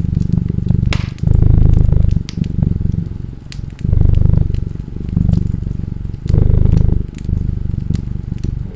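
A cat purring close up in slow, even cycles: a louder phase, then a softer one, about every two and a half seconds. Under it, a wood fire crackles with scattered sharp pops.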